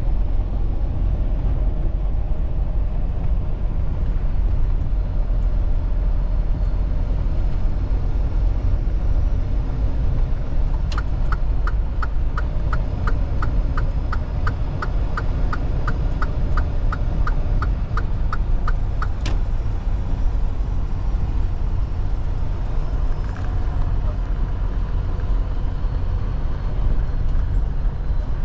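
Steady low road and engine rumble heard inside a moving vehicle's cabin. Partway through, a turn signal ticks evenly, about three ticks a second, for some eight seconds.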